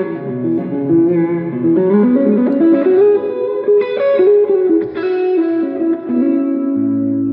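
Electric guitar played through effects: a melodic run of single notes and chords. A low note comes in and holds near the end.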